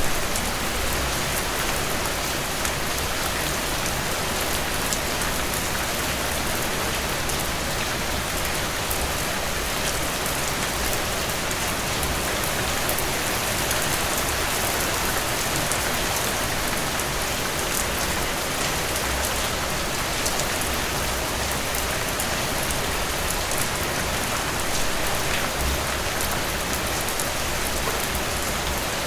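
Heavy rain pouring steadily, a dense hiss of drops striking a surface.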